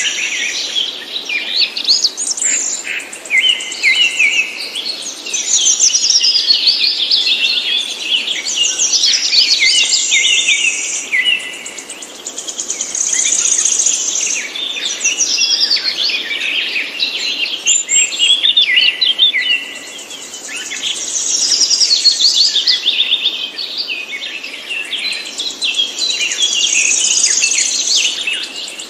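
Songbirds singing: a dense run of rapid high chirps and trills, with a steady high buzzing note that comes and goes every several seconds.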